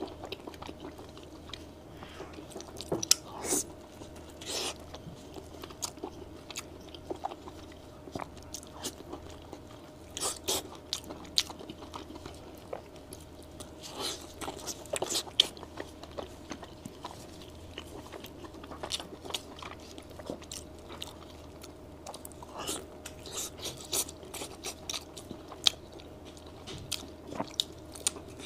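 Close-miked eating of braised pork belly (hong shao rou): bites and chewing make irregular mouth clicks and smacks, with a few sharper, louder bites.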